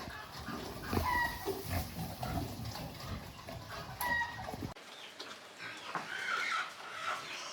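Chickens clucking in a farmyard: short pitched calls about a second in and again about four seconds in, over a rough background. The background changes suddenly near two-thirds of the way through, and a few fainter calls follow.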